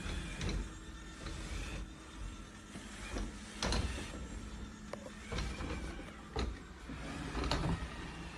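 iRobot Roomba robot vacuum running with a steady motor hum, broken by about five short, sharp knocks and clatters. The loudest come about three and a half seconds in and near the end.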